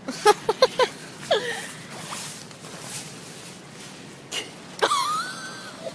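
Short non-word vocal sounds from a person: a few quick gasps or yelps, then a hissing rustle, then one drawn-out squeal near the end.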